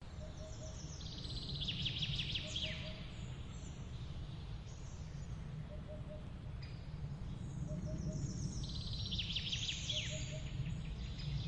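Songbirds singing: two bursts of rapid, high trilling song with quick falling notes, one near the start and one near the end, over a steady low rumble. A faint, low note sounds in short groups every second or two.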